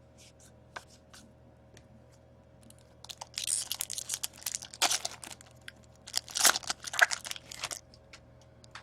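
Hockey card pack wrapper being torn open and crinkled, in two bursts of crackling a couple of seconds apart, after a few light ticks.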